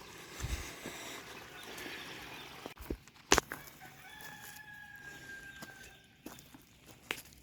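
An animal's single long, level call lasting about a second and a half, starting about four seconds in. A sharp knock comes just before it, with a few lighter clicks around it.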